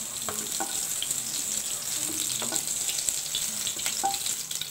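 Pointed gourds sizzling in hot oil in a nonstick kadai, with a few light clicks of the spatula as the fried pieces are lifted out.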